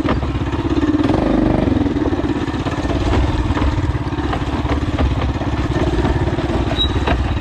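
Coleman CT200U mini bike's 196cc single-cylinder four-stroke engine running steadily, with a little pitch movement about a second in.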